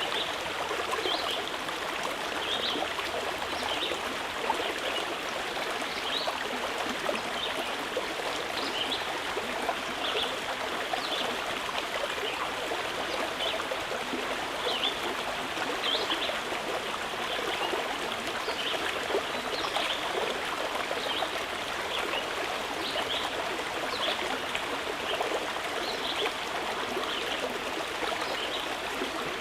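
Shallow stream flowing steadily over stones: a constant rushing babble with many small, bright splashes and gurgles scattered through it.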